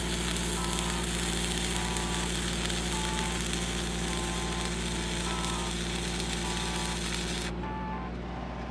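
Stick-welding arc burning a 7014 rod, a steady crackling sizzle over the steady hum of an engine-driven welding machine; the arc breaks off suddenly near the end while the engine keeps running.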